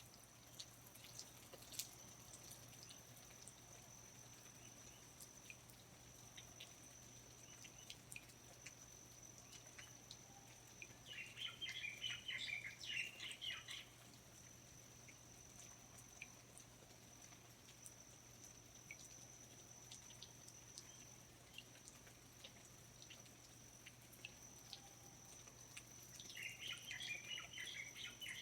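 Faint rainforest ambience: scattered water drips and a steady high-pitched whine, with two bouts of rapid bird chirping, about eleven seconds in and again near the end.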